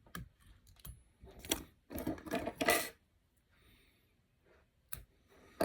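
Clicks, taps and rustling of small fly-tying tools and materials being handled, with a cluster of clattering knocks in the first three seconds and one sharp click near the end.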